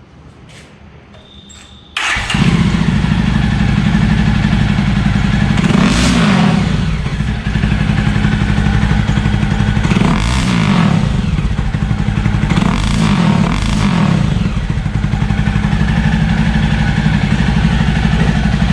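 Jawa Classic motorcycle's single-cylinder engine running loudly through its stock exhaust, set up for its loudest 'stage' sound. It comes in suddenly about two seconds in, and the throttle is blipped up and back down about four times. The sound is a shrill, screaming note.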